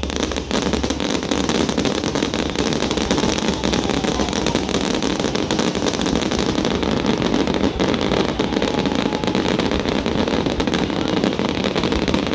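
Fireworks display at full intensity: a dense, continuous run of bangs and crackles from many aerial shells bursting close on one another, with no let-up.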